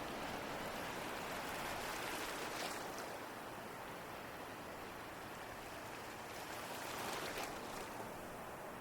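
Ocean waves washing in as a steady hiss of surf, with two waves surging louder, one about two and a half seconds in and another about seven seconds in.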